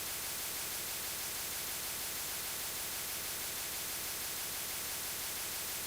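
Steady static hiss of an open broadcast channel carrying no programme, an even noise with no tones or voice.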